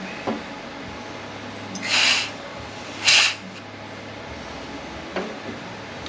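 Compressed air from an air nozzle blown in two short blasts into the dog clutch passages of a ZF 9HP48 (948TE) automatic transmission, about two and three seconds in. Air blows straight through both passages without the dog clutch being heard moving, which the technician takes as where the dog clutch position fault may lie.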